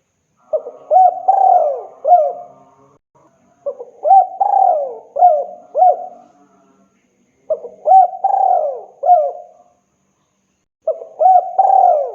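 Spotted dove cooing: a male's song to call a female, four phrases of several rising-and-falling coos each, repeated about every three and a half seconds with short pauses between.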